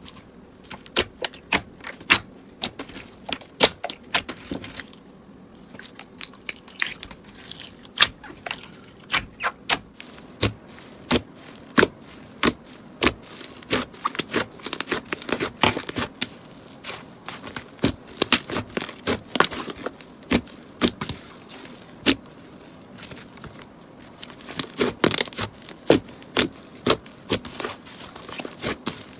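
Slime being worked by hand, giving an irregular run of sharp crackling pops and clicks, several a second, with a couple of brief lulls.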